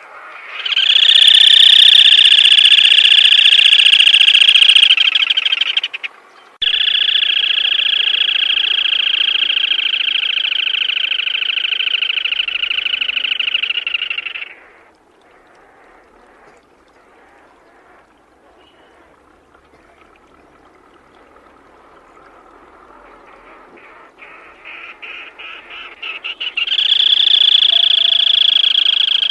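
Black-tailed crake calling: two long, even trills of several seconds each with a short break between them. After a quiet stretch, spaced notes quicken into a third trill near the end.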